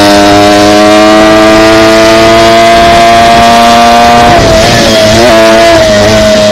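Dirt bike engine running loud at steady throttle, its pitch creeping slowly up for about four seconds. Near the end it dips and wavers twice, as if the throttle eases off and comes back on, then holds steady again.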